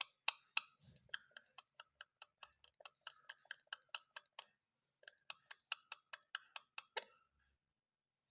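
Parrot making rapid sharp clicks, about four a second, in two runs with a short break partway through; the clicking stops about seven seconds in.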